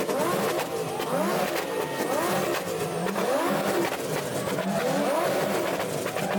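Several car engines revving at the same time in a rev-off, with quick repeated throttle blips that rise and fall in pitch, overlapping one another.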